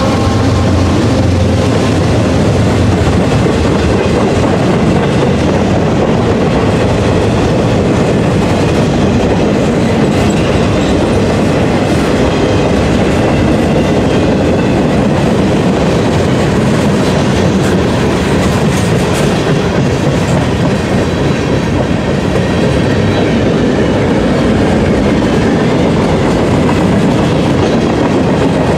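Boxcars and tank cars of a mixed freight train rolling past on steel wheels, a loud, steady noise of wheels on rail.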